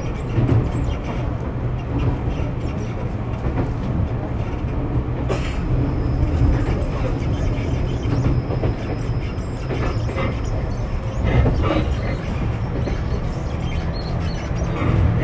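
Tokyu 6000 series electric train running between stations, heard inside the carriage: a steady low rumble of wheels on rail with scattered rail-joint clicks. A thin high tone holds for a few seconds in the middle.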